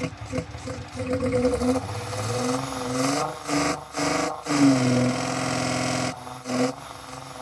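Hyundai Tiburon V6 engine being revved in several blips, its pitch rising and falling with brief drops between revs, with a pod air filter held to the intake. The engine is down on power and misfiring, which the owner puts down to a vacuum leak or a faulty camshaft position sensor that keeps it from revving past about 3,000 rpm.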